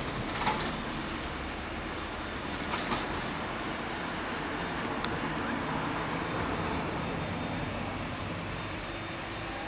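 Boeing 787-9 Dreamliner's jet engines running at taxi power: a steady rumble and hiss, with a single sharp click about halfway through.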